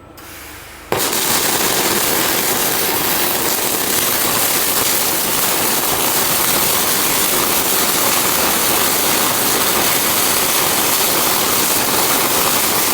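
An industrial robot's spraying or welding head starts abruptly about a second in, with a loud, steady hissing, crackling noise that continues without a break.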